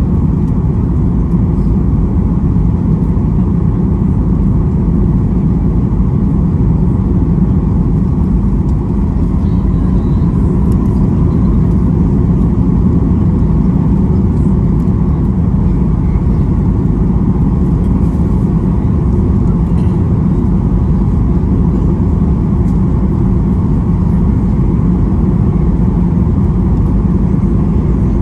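Steady, loud rumble inside the cabin of a Boeing 737-800 rolling on the ground just after landing, with its CFM56-7B engines running and the airframe rolling along the runway or taxiway.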